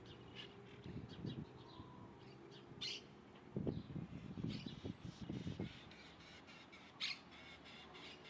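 Wild birds calling with short, harsh calls, the clearest about three seconds in and again near the end, over bursts of low rumbling.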